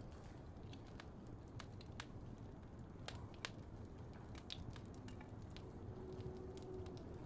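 Fireplace ambience: a steady low rumble of burning with irregular sharp crackles and pops.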